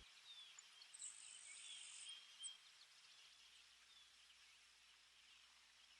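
Near silence: a faint steady hiss with a few faint, short high chirps in the first couple of seconds.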